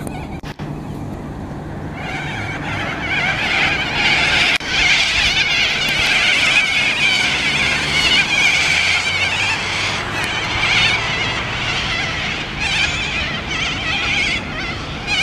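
A flock of birds gathered in one tree, many calling at once in a dense, chattering chorus that swells about two seconds in and keeps going.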